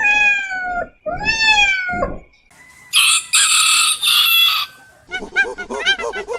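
Chickens calling: two pitched crowing calls in the first two seconds, then a harsher, higher call from about three seconds in. From about five seconds in comes a rapid run of short clucking calls, about five a second.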